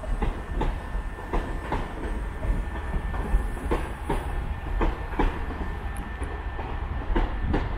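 Class 323 electric multiple unit running into the station, its wheels clicking over rail joints, often in quick pairs, over a steady low rumble.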